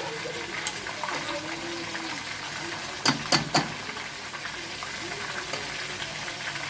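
Whole chicken frying in hot oil in a pan, a steady sizzle. About halfway through, three sharp knocks in quick succession.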